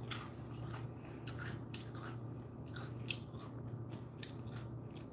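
Close-up mouth sounds of a person biting into and chewing a soft white-bread sandwich: irregular small clicks and smacks, a few a second, over a steady low hum.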